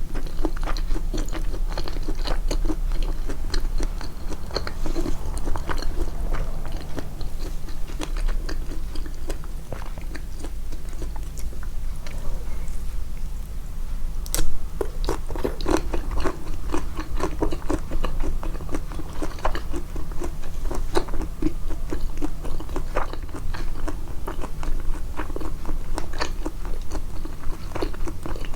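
Close-miked chewing and biting of food: a continuous run of quick, short mouth clicks. There is one sharp, louder snap about halfway through.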